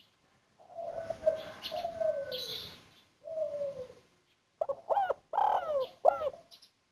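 Spotted dove (tekukur) of the 'kuk 1' song type cooing: a few low, falling coos, then a quick run of short notes near the end.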